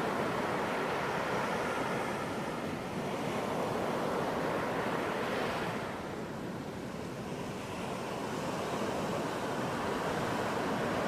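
Ocean surf washing onto a beach: a continuous rushing wash that swells and eases, falling off a little past the middle and building again near the end.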